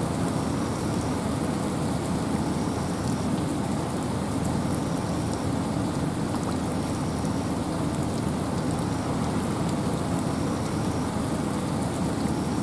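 Steady wind and rain in a forest: an even, unbroken rushing wash, heaviest in the low range.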